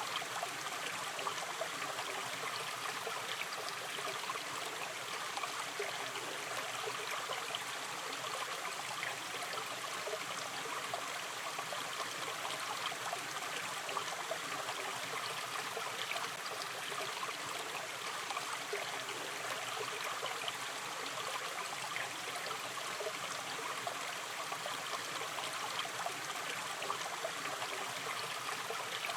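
Gentle river stream flowing steadily, water trickling and babbling over stones.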